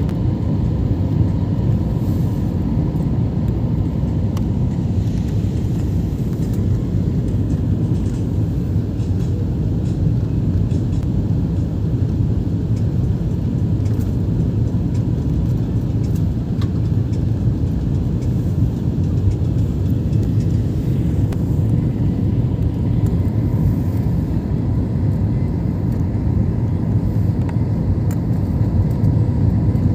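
Steady low rumble of an airliner's engines and airflow, heard inside the passenger cabin during the descent for landing, with a faint steady hum on top.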